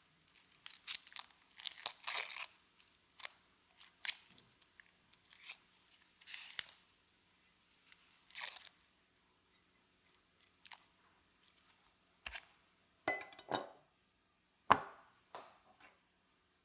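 Ingredients and their packaging being handled for prep: intermittent crinkling, tearing and crunching, followed by a few sharp knocks and a short rattle later on.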